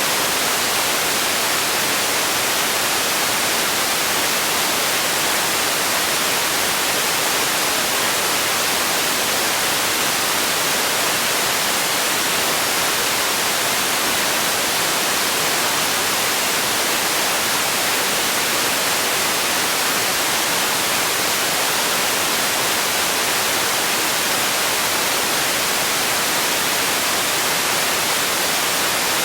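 Steady white noise: a constant, unchanging hiss, strongest in the treble and thin in the bass.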